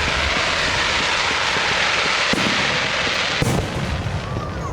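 Aerial fireworks: a loud, dense hissing crackle from a shell burst, with two sharper bangs, one about two seconds in and one about three and a half seconds in, before the hiss fades near the end.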